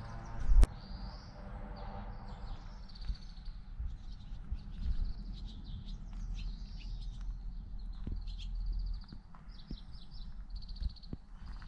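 Small birds chirping over and over in short high trills, over a steady low rumble. A single sharp knock sounds about half a second in, with a few lighter clicks later on.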